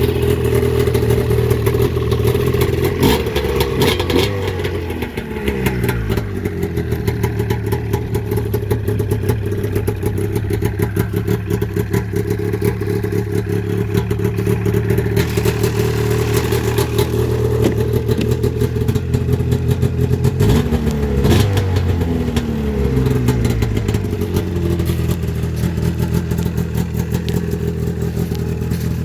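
1999 Polaris XC700 snowmobile's two-stroke twin engine running just after a cold start on choke, idling steadily. The revs come up and fall back twice, a few seconds in and again past the middle.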